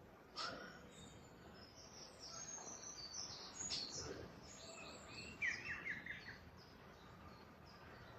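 Several small songbirds chirping and singing in short high phrases, with a quick run of repeated notes about five and a half seconds in, over faint steady background noise.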